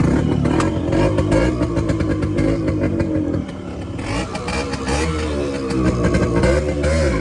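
Several motorcycle engines running and revving together, their pitches rising and falling over one another, dipping briefly about three and a half seconds in.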